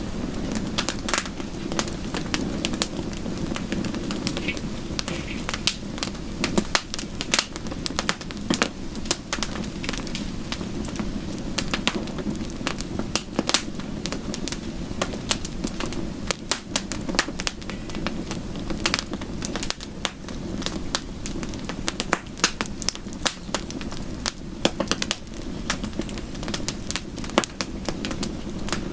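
Wood fire crackling in a fireplace: irregular sharp pops and snaps, several a second, over a steady low rush.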